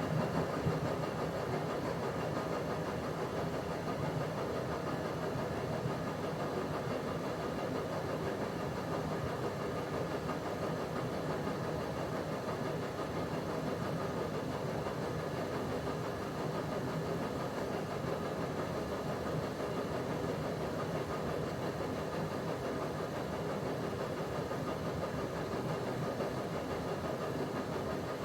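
Bauknecht WA PURE ST 14 FLD washing machine running its steam self-cleaning program, with the drum turning and the steam generator working: a steady mechanical running sound with a faint hum.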